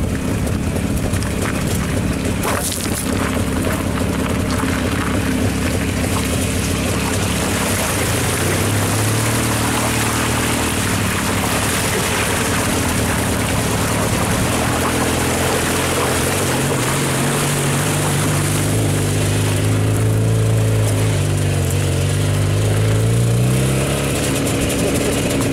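Velorex three-wheeler's Jawa 350 two-stroke engine running under way, with tyres crunching over gravel and through a shallow ford about halfway through. The engine note dips and climbs again near the end.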